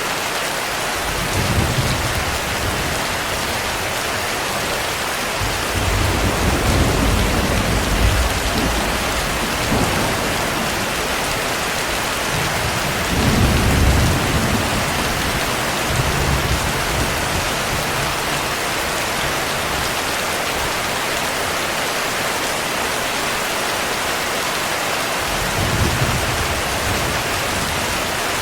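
Steady heavy rain with several low rolls of thunder: a long rolling rumble lasting several seconds, and shorter ones before and after it.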